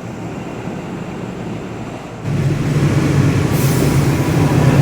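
Passing train: about two seconds in, the sound jumps to a louder steady low drone of a diesel locomotive engine with rolling rail noise above it.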